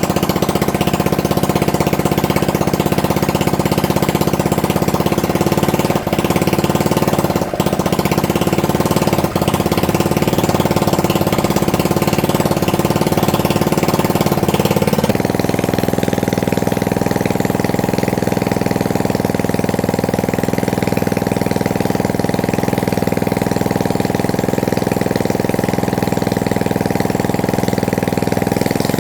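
750 W electric motor running steadily, a loud hum with a rattle in it. About halfway through it turns a little quieter and duller, then runs on evenly.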